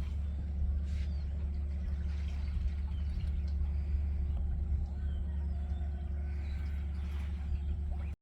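Express boat's engine running steadily: a deep, even drone with a constant hum above it, which cuts off abruptly at the very end.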